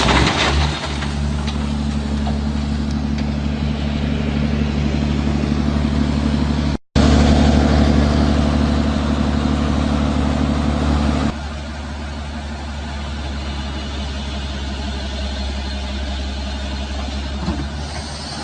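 Heavy machine's engine running steadily at an even speed. The sound cuts out for a moment about seven seconds in, and it drops in level after about eleven seconds.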